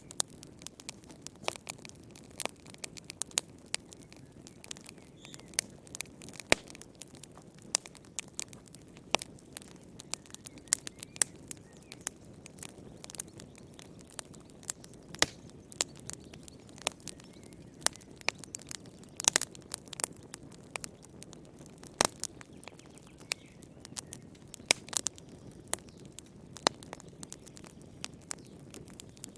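Wood campfire crackling and popping: irregular sharp pops, several a second, over a soft low hiss of the burning fire.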